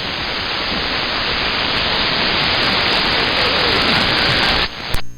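CB radio receiver static: a steady hiss that slowly grows louder, then cuts off suddenly with a click near the end as the squelch closes.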